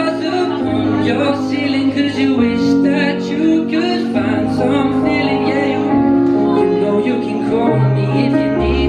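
A live band performs a pop song, with a singer holding and bending notes over sustained chords and a steady beat.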